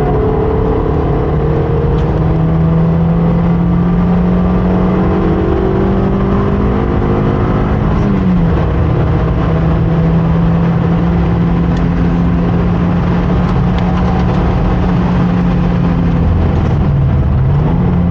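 Mazda RX8's two-rotor rotary engine running hard at nearly constant revs, with a dense rush of road and wind noise. The note dips briefly about eight seconds in and again near the end.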